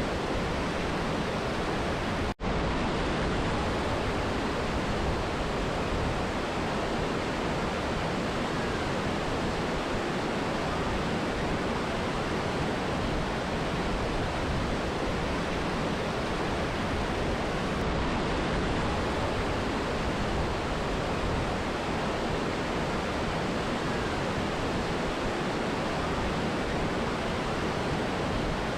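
Mountain river and waterfall rushing in a steady, even roar of water. The sound drops out for a split second about two seconds in.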